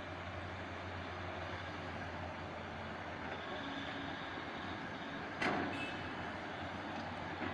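Diesel engines of a backhoe excavator and dump truck running steadily during soil loading, with one sharp clank about five and a half seconds in.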